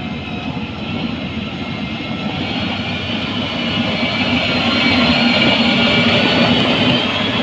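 Heavy road-construction machinery running steadily, a rumble with a high whine that grows slightly louder toward the end.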